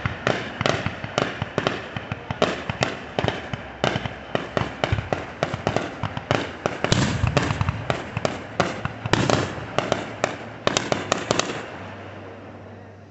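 Fireworks going off in a rapid barrage of sharp bangs and crackles, several a second, which stops about twelve seconds in and trails away.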